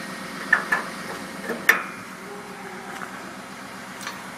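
Four sharp clicks and knocks in quick pairs within the first two seconds, over a steady background noise.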